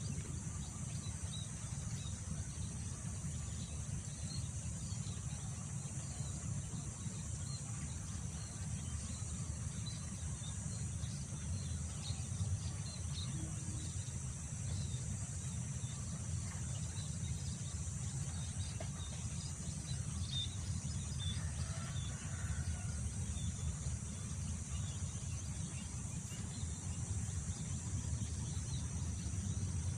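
Wind buffeting the microphone as a steady low rumble, over a constant high drone of insects such as crickets, with scattered faint short chirps.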